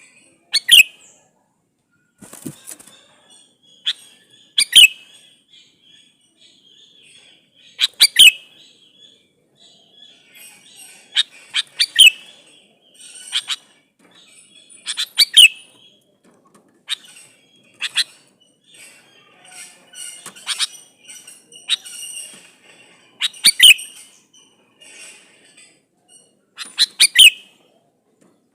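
Male sooty-headed bulbul (kutilang) calling: short, loud phrases repeated every few seconds, with fainter chirps between. It is a male's call to a female, used as a lure to make other bulbuls answer.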